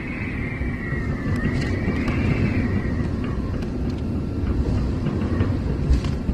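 Typhoon-force wind buffeting the microphone, a steady low rumble, with a high wavering whistle for the first three seconds.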